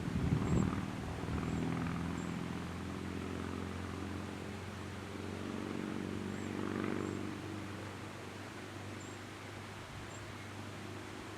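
Diesel locomotive engine running with a steady low rumble, swelling slightly about half a second in and again around seven seconds in.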